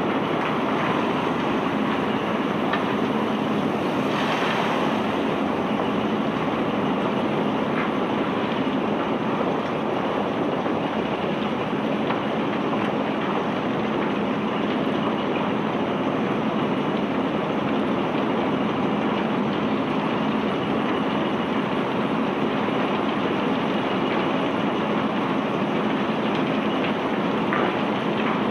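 Steady, even noise of heavy machinery running, with a few faint knocks.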